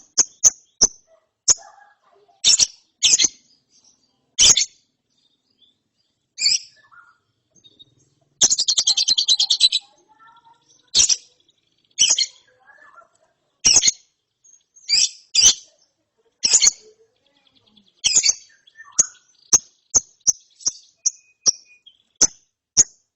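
Young lovebird chirping: a string of short, sharp, high calls, with one rapid rattling trill lasting about a second and a half, some eight seconds in.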